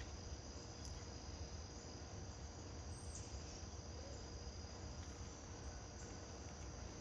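Steady insect chorus, crickets or similar, trilling continuously in the background over a low, even rumble.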